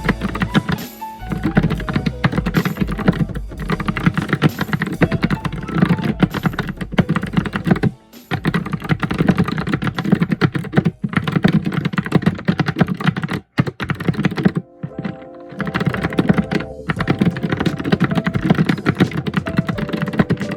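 Fast, continuous typing on a computer keyboard: dense keystrokes with a deep, low body, broken by a few short pauses around the middle.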